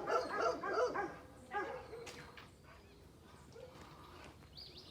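A dog barking, several quick barks in the first second and one more a little later, then only faint background sound.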